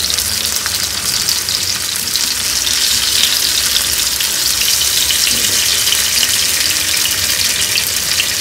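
Marinated soya chaap pieces shallow-frying in hot oil in a nonstick pan: a steady, crackling sizzle, while tongs turn the pieces over.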